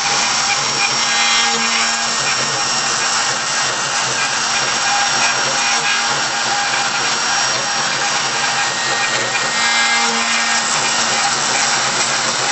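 Mini CNC machine running: a steady motor whine with several held tones over a dense hiss.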